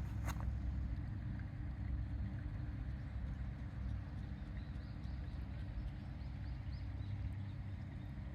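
Wind buffeting the microphone: a steady low rumble, with one sharp click just after the start and faint high chirps in the second half.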